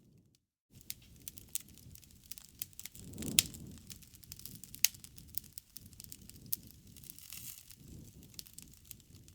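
Wood fire crackling, with a steady scatter of sharp pops and snaps over a low rumble. The loudest pop comes about a third of the way in. The sound drops out briefly just after the start.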